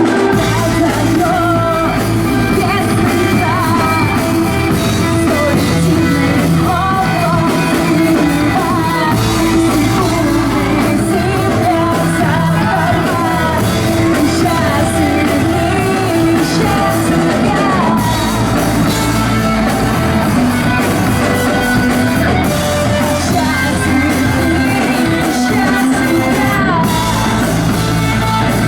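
A rock band playing live, with a lead voice singing and at times shouting over guitars and a steady bass line.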